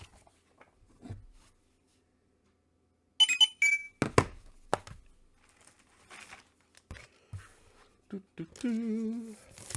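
Comic books in plastic bags being handled: a brief rustle about three seconds in, then a few sharp thunks as books are moved and set down. A short hum-like voice sound comes near the end.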